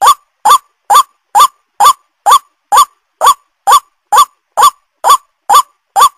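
White-breasted waterhen (ruak-ruak) call played as a bird lure: a loud, short, upward-sliding note repeated evenly about twice a second, with dead silence between the notes, as from a looped recording.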